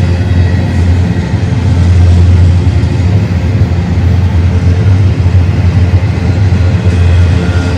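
BNSF intermodal freight train passing, a steady loud low rumble.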